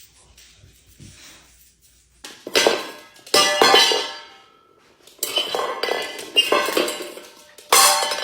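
Metal dog food bowl clattering and ringing as a dog knocks it about to ask for food. There are several loud clatters in three bunches, starting about two seconds in, each ringing on briefly.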